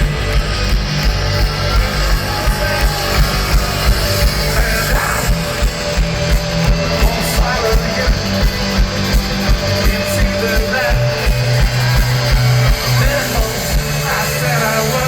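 A rock band playing live through a loud PA, with electric guitars, bass and drums keeping a steady beat.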